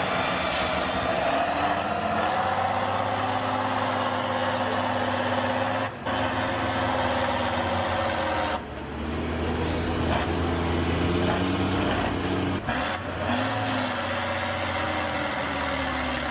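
Tatra 813 8x8 truck's air-cooled V12 diesel engine labouring and revving as it pulls through sand, its pitch rising and falling. Brief hisses come twice, near the start and about ten seconds in.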